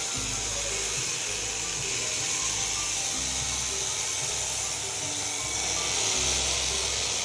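Electric sheep-shearing handpiece running steadily while cutting through fleece, with a continuous high buzz.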